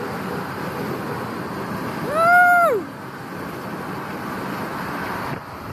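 Steady noise of a large group of motorcycles riding past, with a person's loud shout of "woo!" about two seconds in.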